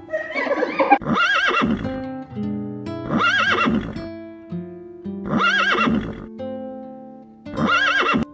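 A zebra's whinnying bark, four similar calls each about a second long, roughly every two seconds, over background music of plucked strings.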